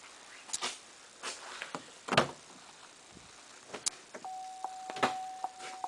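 Scattered clicks and knocks of controls being handled inside a 2010 Chevy Colorado's cab. About four seconds in, a steady electronic tone with a regular ticking over it starts and carries on.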